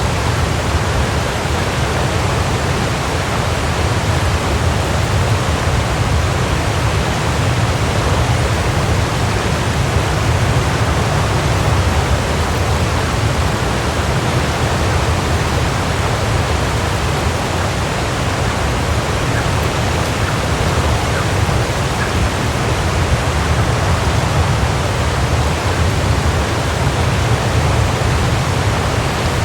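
Waterfall: a steady, even rush of falling water, heaviest in the low rumble, unchanging throughout.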